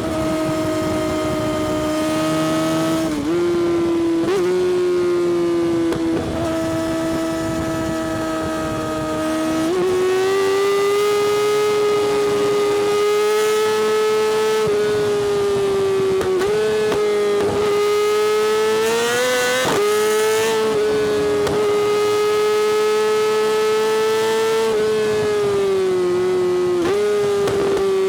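Yamaha R6's 600cc inline-four through an Akrapovic exhaust, ridden at high revs with a steady, high-pitched note. The pitch dips briefly and picks up again several times as the throttle is eased and reopened, stepping higher about a third of the way in.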